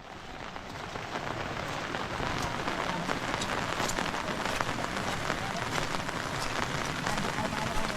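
Steady rain falling, with a dense patter of individual drops; it fades in over the first second or two, then holds steady.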